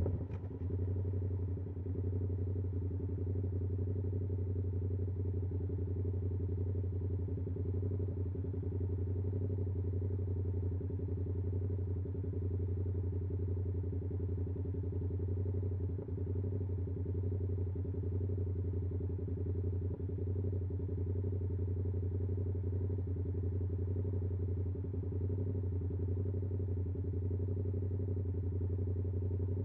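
2022 Yamaha R7's 689cc parallel-twin engine through an SC-Project CR-T exhaust, idling steadily at a standstill, the note settling just after the revs drop at the start.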